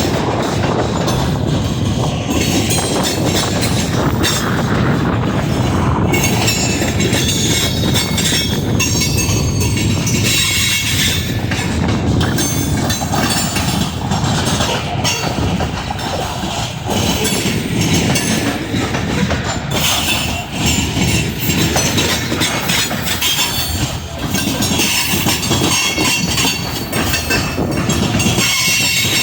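Freight train rolling past, its railcars' wheels running loud and steady on the rails.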